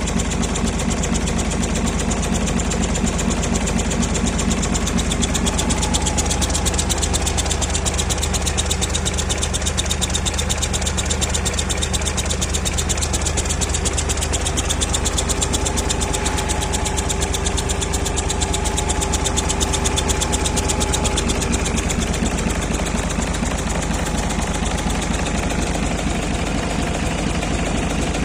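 Hino E13C inline-six diesel truck engine idling steadily, with a dense, even run of firing pulses and no change in speed.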